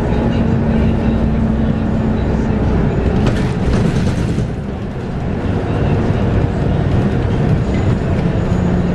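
Scania K230UB city bus heard from on board while driving: its 8.9-litre five-cylinder Scania DC9 diesel and ZF Ecomat six-speed automatic give a steady drive note. The note eases off about five seconds in, then builds again at a lower pitch near the end, with a brief patch of clatter about three to four seconds in.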